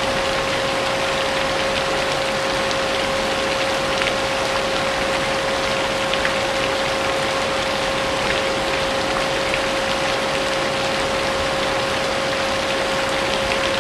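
A vacuum cleaner running steadily with a constant whine, layered with steady rain and scattered drop ticks.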